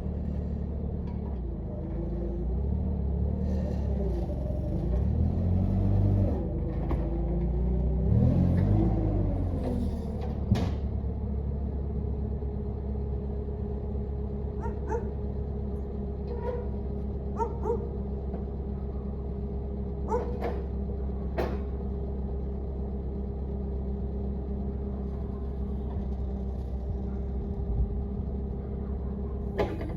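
A machine engine running steadily, with sliding whines that rise and fall over the first ten seconds or so, then a few sharp metal knocks and clanks.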